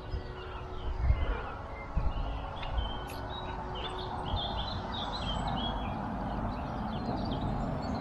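Small birds chirping, many short overlapping chirps and calls, over a steady low rumble with a few soft thumps.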